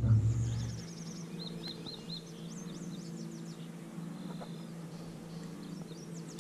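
Small birds chirping in several short series of high, quick calls over a faint steady low hum. A louder low drone cuts off about a second in.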